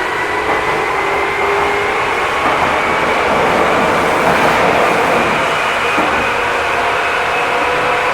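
Tokyu 8500 series electric train running, its traction motors whining in several parallel tones that slowly rise in pitch as it gathers speed, over a steady rumble.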